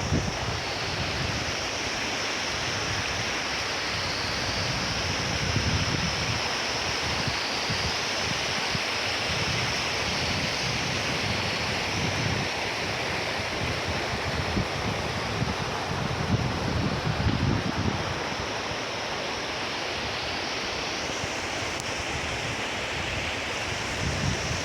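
Steady rushing of a river's flowing water, with wind buffeting the microphone in low rumbling gusts now and then, most strongly about six seconds in and again around seventeen seconds.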